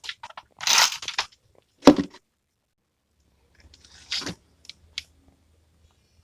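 Handling noises: short scraping and crunching bursts, a sharp knock about two seconds in, and a couple of clicks later on.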